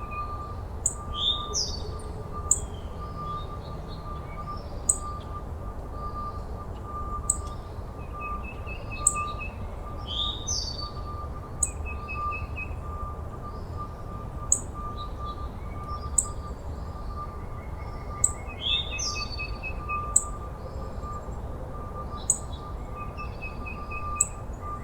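Birds chirping and singing: sharp high chirps every second or two, a few falling whistled phrases and short trills. Underneath runs a steady, faintly pulsing high tone and a low background rumble.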